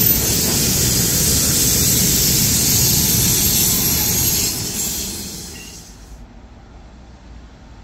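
A train hauled by a class 193 Vectron electric locomotive rolling past, a steady rush of wheels on the rails that dies away about five seconds in. After that only a faint low rumble remains.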